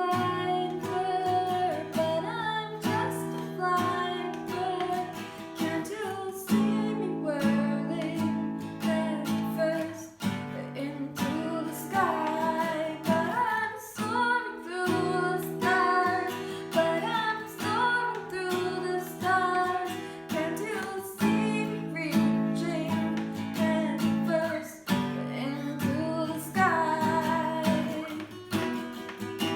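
A song: acoustic guitar strumming a repeating chord pattern, with a voice singing a wavering melody over it.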